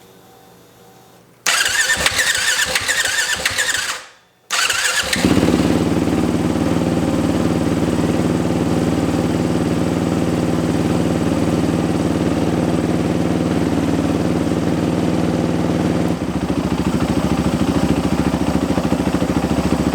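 Freshly rebuilt 2015 Yamaha WR450F 450cc single-cylinder four-stroke engine being turned over by its electric starter for about two and a half seconds, briefly dropping away, then firing and running steadily at idle. About sixteen seconds in, the engine note changes and gets slightly quieter.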